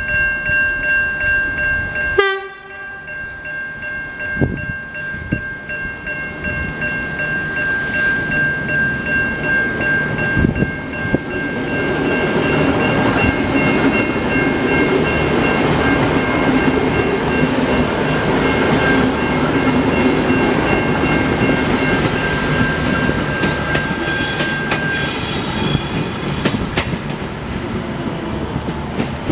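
Level crossing warning bells ringing steadily while a V/Line VLocity diesel multiple unit approaches and passes over the crossing. The train's engines and wheels build to a loud rumble from about eleven seconds in, with clickety-clack and some high ringing tones as the carriages go by, then fade near the end.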